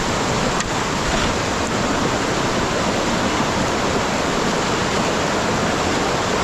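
Floodwater rushing, a steady, loud noise of flowing water.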